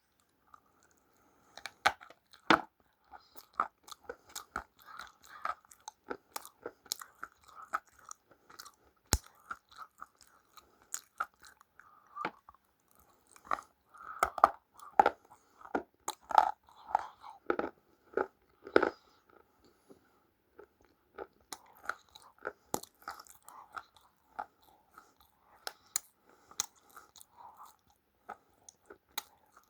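Close-up crunching of something brittle being bitten and chewed, sharp irregular crackles in quick runs with a short pause about two-thirds of the way through.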